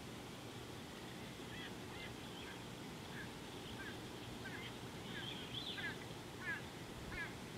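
A bird calling in a run of short, repeated notes, sparse at first, then coming faster and louder in the second half, over a steady low background noise.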